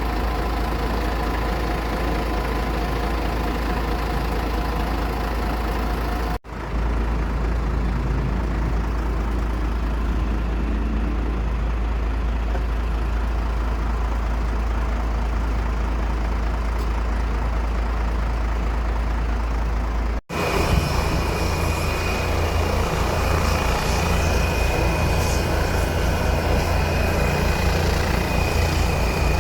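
Steady low engine rumble with no speech, broken by two brief dropouts where the recording is cut; after the second cut the rumble pulses evenly and a faint high whine sits over it.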